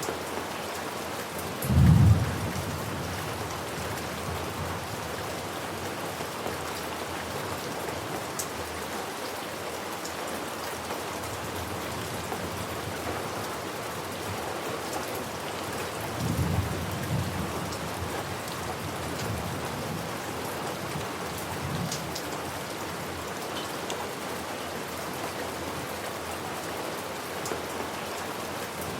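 Steady heavy rain falling, with low thunder rumbling: a loud rumble about two seconds in, a longer one a little past the middle, and a fainter one later.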